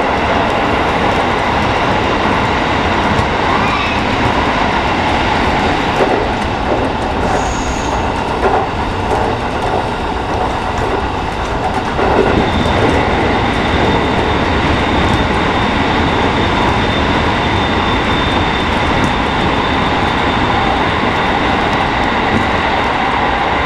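JR West 207 series electric train running at speed through a tunnel, heard from inside the car behind the cab: a steady, dense rumble of wheels on the rails. A thin, steady high tone comes in about halfway through.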